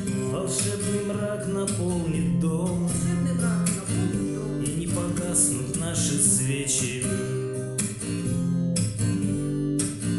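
Instrumental ending of a song: an acoustic guitar strumming chords over sustained backing notes, with a steady strum rhythm.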